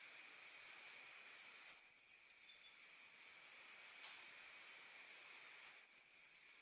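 Orange-headed thrush giving its high, thin "ngecis/ngecip" calls, the kind used to call in males. There are two loud downward-sliding whistles about four seconds apart, with softer short notes between them, over a faint steady high hum.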